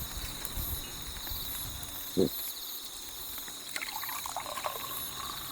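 Insects chirping steadily in a pulsing drone, with a single dull thump about two seconds in and a few faint small sounds near the end.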